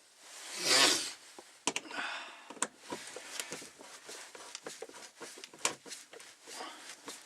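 Hand tools and plastic parts being handled at the fuel pump access cover while its Torx screws are undone: a loud rubbing swish about a second in, then a scrape and many irregular clicks and taps.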